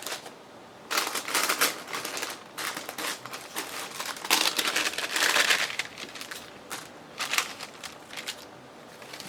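Paper and packets rustling and crinkling as hands rummage through craft supplies, in irregular bursts with the longest spell about four to six seconds in.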